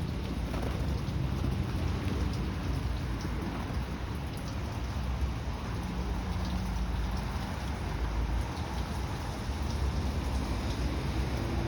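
Steady rain falling, with faint scattered drop ticks over a constant low rumble.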